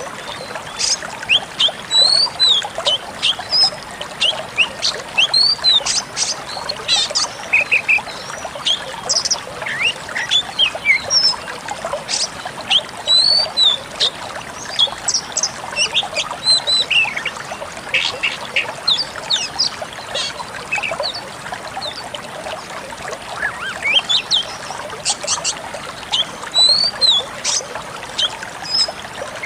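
Decu kembang songbird singing a busy run of short chirps, quick whistled slurs and scratchy trills, steady over a continuous background hiss.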